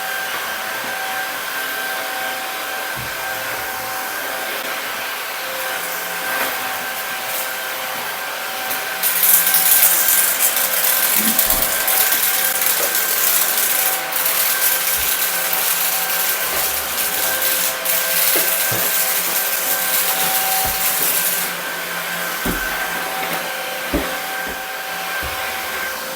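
Shark cordless stick vacuum cleaner running after a clean and service, its motor giving a steady whine. From about nine seconds in to about twenty-one seconds the suction gets louder, with a rushing of air, and a few short knocks come through as the head moves about; it is picking up debris again.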